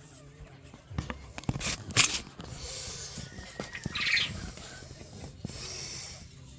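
Backyard poultry moving about, with a few sharp knocks and rustles a second or two in and a short high squawk about four seconds in.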